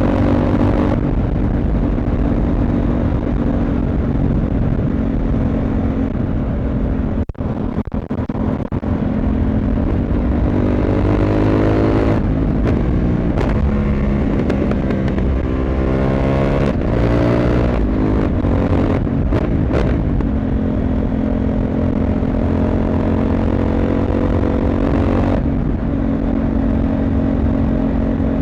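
CFMoto 800MT motorcycle's parallel-twin engine and exhaust running under way. The engine note drops out briefly about seven seconds in, then rises in pitch twice as the bike accelerates, before settling into a steady cruise.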